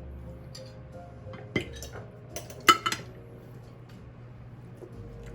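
Cutlery and dishes clinking during a meal: a few sharp clinks of utensils against plates, the loudest a pair about two and a half seconds in.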